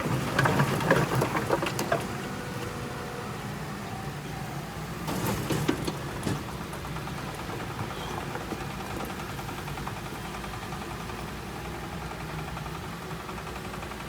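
Heavy construction machine's diesel engine running steadily, with clanking and rattling in the first two seconds and again around five to six seconds in.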